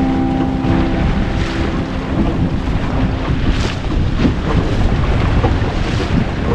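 Wind buffeting the microphone with water rushing and splashing along the hull of a small sailboat under way. Held notes of background music fade out in the first three seconds.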